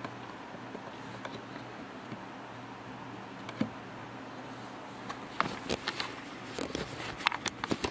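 Faint steady room hum, then a single click and, from about five seconds in, a run of small sharp clicks and taps from objects being handled.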